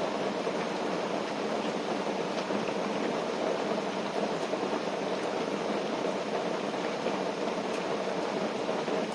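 Steady rushing water noise with a few faint scattered ticks.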